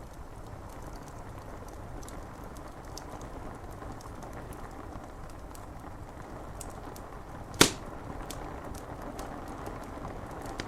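Wood fire crackling with scattered small clicks and one loud sharp pop about three-quarters of the way through, over the steady hiss of rain on window glass.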